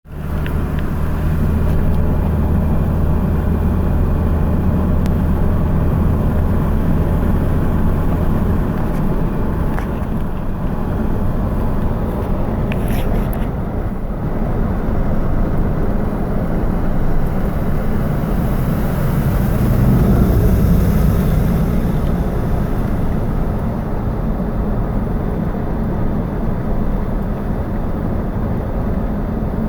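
Steady engine and road noise of a vehicle driving, with a low engine drone that drops away about eight seconds in.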